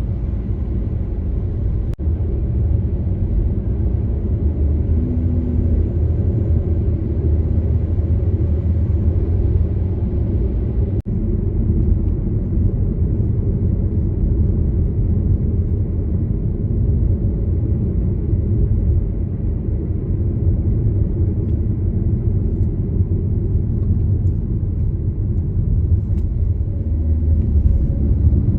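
Steady low rumble of a car driving along, with tyre and engine noise and no change in pace; it briefly cuts out about eleven seconds in.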